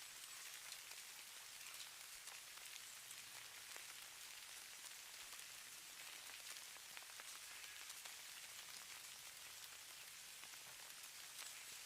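Falling snow: a faint, steady hiss of fine pattering ticks, as of grains landing on a surface.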